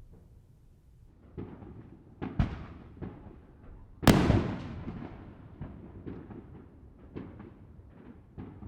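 Distant consumer fireworks going off across a city: scattered, irregular bangs and pops, the loudest about four seconds in, followed by a long rolling echo.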